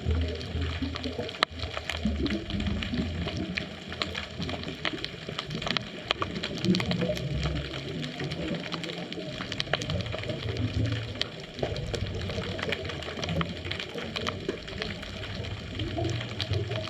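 Underwater ambience picked up by a GoPro in its dive housing: low bubbling rumbles from a scuba diver's exhaled air come and go every few seconds over a bed of scattered sharp clicks and crackles.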